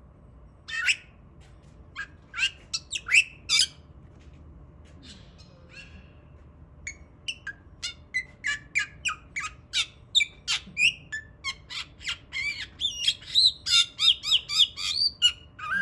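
A white bird giving short, squawky hiccup calls. A few loud ones come in the first four seconds, then fainter ones, then a run of calls that quickens to about three a second near the end.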